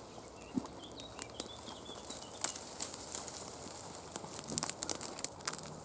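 Footsteps wading through long wet grass and undergrowth: irregular swishing, rustling and snapping of stems and leaves, loudest about two and a half seconds in and again near the end.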